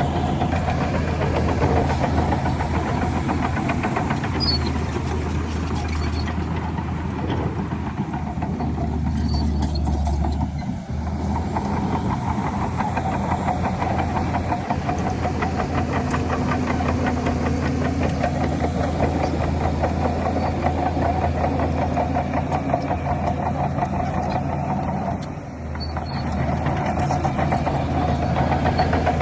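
Heavy diesel engine of a crawler dozer running steadily under load, its note dropping briefly twice, about a third of the way in and again near the end.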